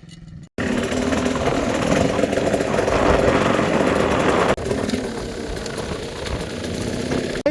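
Quad bike engine running under a loud rushing noise. The sound starts abruptly after a brief silence about half a second in and breaks off sharply about four and a half seconds in before carrying on.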